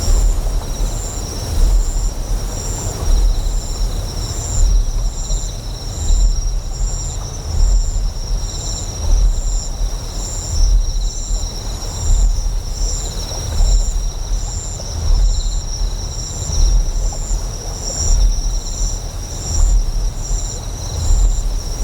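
Deep generator hum that pulses, swelling about every one and a half seconds, under a steady high insect chirping with one thin tone beating about once a second.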